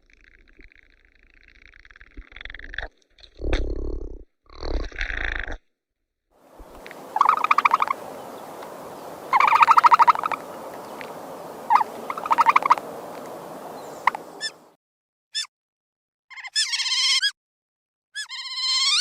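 A run of different animal calls one after another: rapid trilling calls over a steady hiss in the middle, then short pitched cries that bend up and down near the end.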